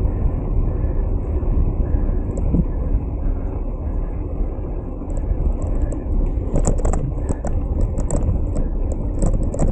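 Wind buffeting and road rumble on the microphone of a moving bicycle, a loud, even low noise. From about halfway through, a run of small sharp clicks or rattles comes in over it.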